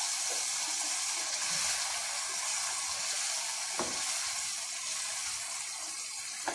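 Raw chicken pieces sizzling in hot oil and tomato-onion masala in a karahi, a steady hiss, with a spatula stirring and knocking once against the pan about four seconds in.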